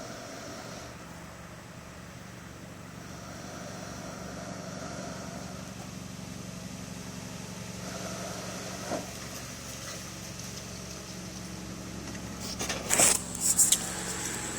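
Breath blowing on smouldering char cloth in a bird's nest tinder bundle to coax it into flame: long, swelling breaths over a steady low hum, with a few loud, sharp gusts near the end.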